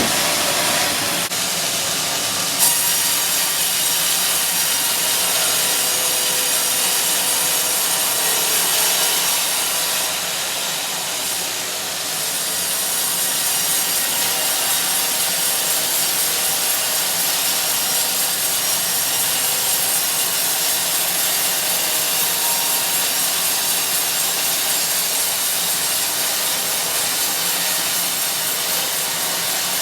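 Sawmill saw cutting lengthwise through a teak log, a steady high hiss of the blade in the wood that eases briefly about ten seconds in.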